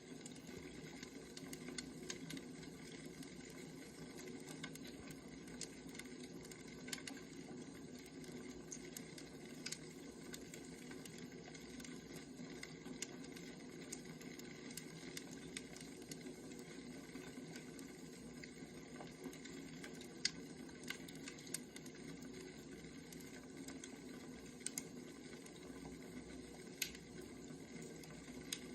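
Firewood burning: a steady low crackle with sharp pops at irregular intervals.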